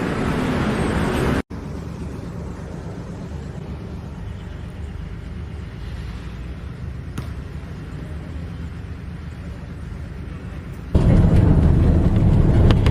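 Steady low rumble of a moving vehicle. It cuts off abruptly about a second and a half in, goes on quieter, then comes back louder near the end.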